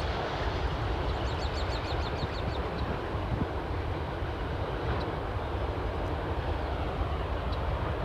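Freight train rolling past with a steady rumble. About a second in, a bird gives a quick high trill of about ten short falling notes.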